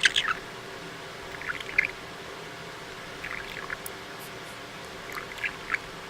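A pet talking bird making short chirps and clicking, water-like noises in four small groups spread across a few seconds.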